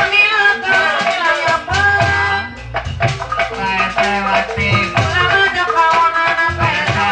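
Sundanese jaipongan music: an ensemble with drum strokes and a melodic line that bends up and down, over steady rattling percussion.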